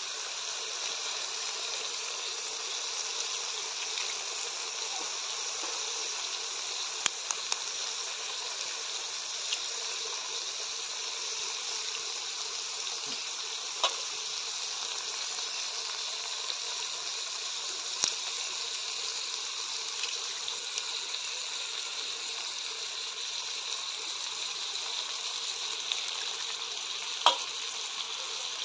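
Potatoes, tomatoes and spice paste sizzling steadily in oil in an iron kadai as raw eggs are cracked in, with a few sharp taps of eggshell on the pan spread through.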